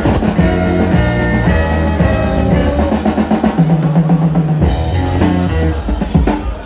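Music from a turntablist's DJ set: a drum-kit beat with a stepping bass line and melody notes. The treble thins out for about a second and comes back abruptly about five seconds in.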